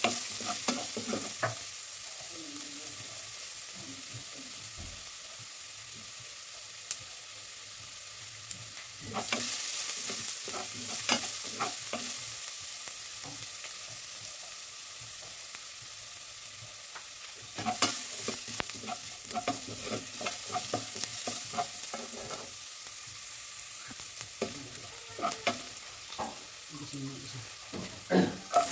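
Julienned ginger and minced garlic sizzling in oil in a metal pot, with a steady hiss. A spatula stirs and scrapes across the pot's bottom in several bouts, near the start, about nine seconds in, and again in the last ten seconds.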